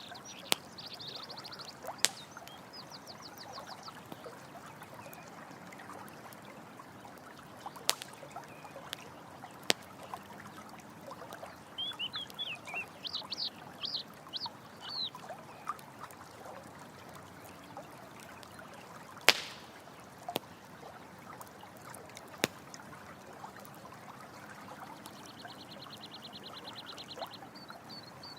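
A campfire crackles, giving several sharp pops over a steady rush of running water. High animal calls sound over the top: a run of chirps about halfway through and a fast trill near the end.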